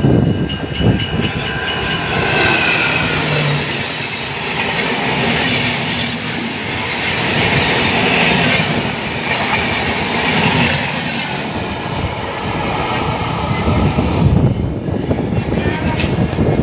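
Express train running along the track: a steady rumble of the coaches with wheels clattering over the rails.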